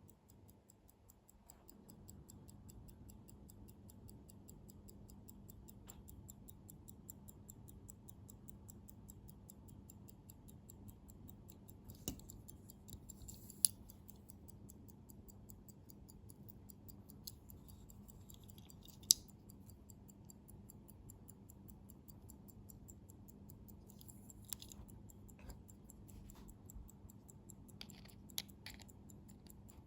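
Faint, fast, even ticking of a c.1915 Omega manual-wind pocket watch movement running. A few sharp clicks of handling stand out now and then, over a steady low hum.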